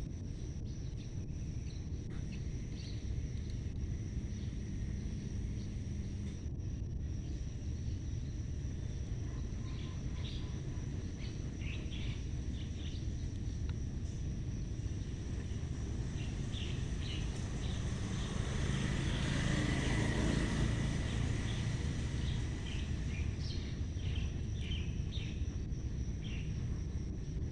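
Outdoor ambience: a steady low rumble with a constant thin high tone, scattered short chirps, and a broad swell of noise that builds and fades about two-thirds of the way through.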